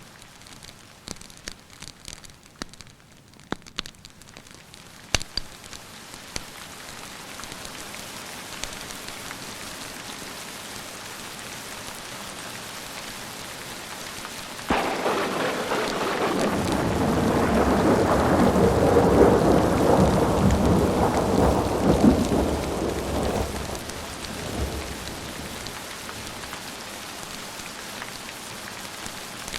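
Steady rain with sharp pops of a crackling wood fire in the first few seconds. About halfway a thunderclap breaks suddenly and rumbles loudly for several seconds before fading back under the rain.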